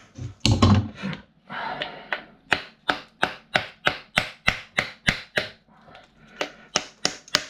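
Quick run of sharp taps, about three a second with a brief pause near the middle, as a part of a desk fan motor is knocked loose so it will come out.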